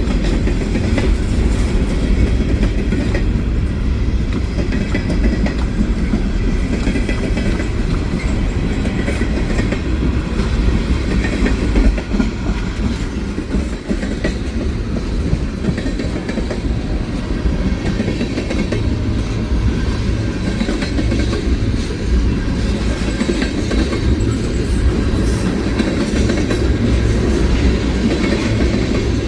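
Freight train rolling past, a steady loud rumble of cars on the rails.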